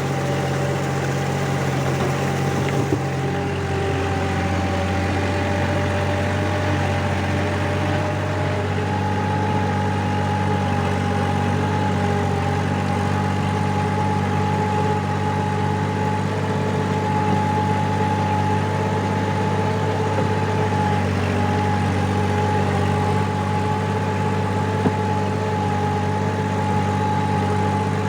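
Four-wheel-drive tractor engine running steadily while pulling a rotavator, its drone holding an even pitch and level, with a slight change in tone about three seconds in.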